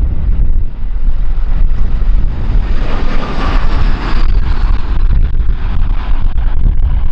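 Strong gusty wind buffeting the microphone with a heavy rumble. Through it, jet airliner engine noise swells in the middle and fades, with a faint whine that drops in pitch as it passes.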